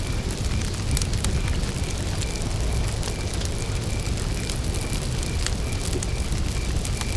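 Wood campfire burning with a steady low rumble and scattered sharp crackles and pops. A cricket chirps faintly in an even rhythm, about two or three chirps a second.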